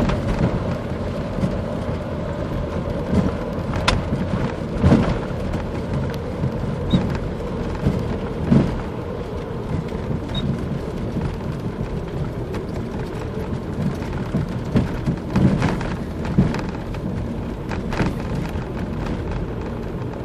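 Car engine and road noise heard inside the cabin while driving under throttle, with irregular sharp clicks every second or few. This is the extraneous clicking under hard throttle in gear that the owner suspects is a spark plug or ignition coil breaking down.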